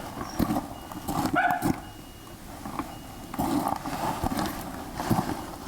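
A dog barking, a couple of barks about one and a half seconds in and a run of barks from about three and a half seconds in, with a few sharp knocks between.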